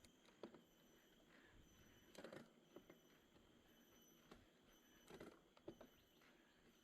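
Near silence: faint hiss with a handful of soft, irregular knocks and clicks.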